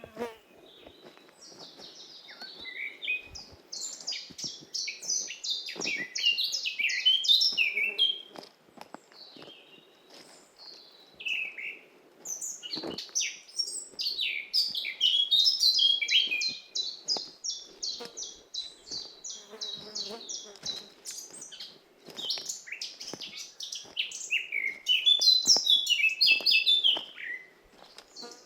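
Forest songbirds singing in several bursts of quick, chirping phrases, with a long run of evenly repeated notes in the middle.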